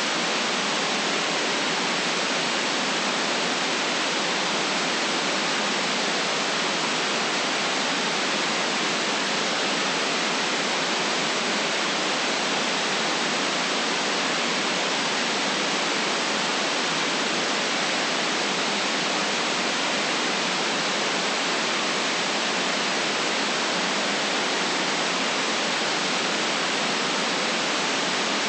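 Steady, unchanging white-noise hiss with no deep rumble and no very high treble, holding the same level throughout.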